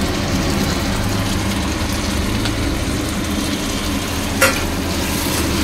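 Onion and spice paste frying in hot oil in a pan as it is stirred: a steady sizzle, with one sharp knock against the pan about four seconds in.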